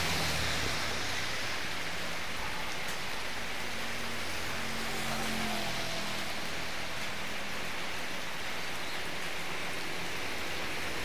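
Steady rain falling on a wet road, with the hiss of a motor scooter's tyres on the wet tarmac near the start and a faint engine hum of passing traffic in the middle.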